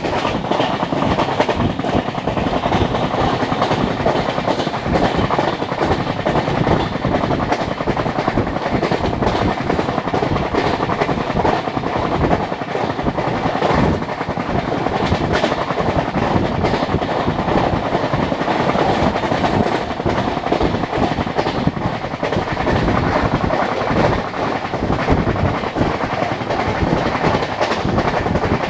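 Indian passenger train coach running at speed, heard from aboard: a steady rumble of wheels on rail with constant clattering knocks from the track.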